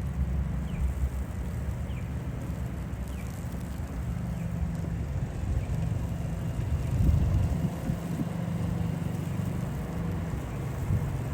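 Low, uneven rumble of city traffic mixed with wind buffeting the microphone, swelling about seven seconds in.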